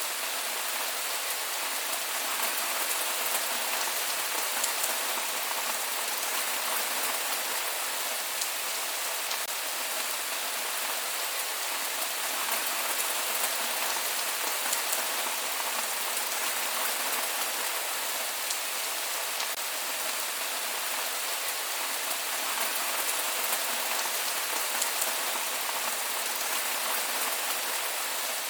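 Steady rain falling on surfaces, an even hiss with scattered drop ticks and no thunder.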